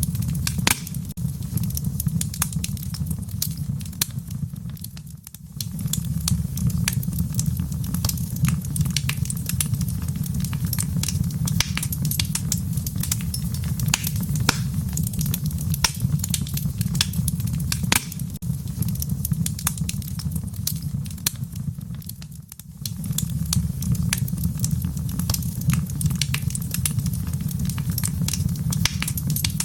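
Wood fire burning in a fireplace, with irregular sharp crackles and pops over a steady low rumble of flame. The whole sound dips briefly twice, about five seconds in and again about twenty-two seconds in.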